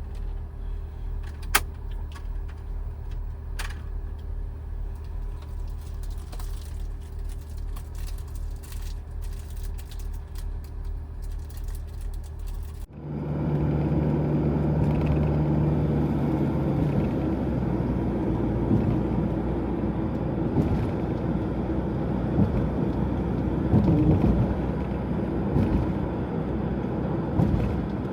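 Vehicle running: a steady, pulsing low hum with a single click near the start, then about halfway through a sudden change to a louder, rougher rumble, like a vehicle under way on the road.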